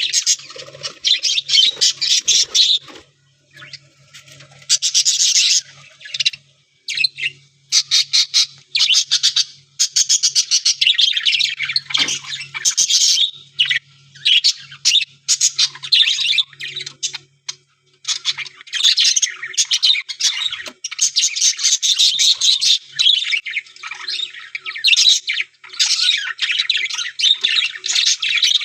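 A colony of budgerigars chattering, with many birds chirping, warbling and squawking at once in busy bursts and short lulls.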